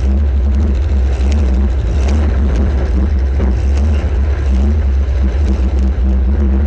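Welded compact demolition derby car's engine running, a loud steady low rumble heard from the camera mounted on the car.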